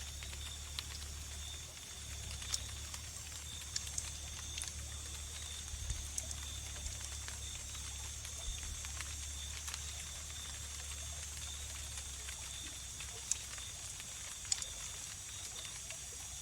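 Wood fire crackling with scattered sharp pops, over the steady high trilling of crickets and a low steady hum.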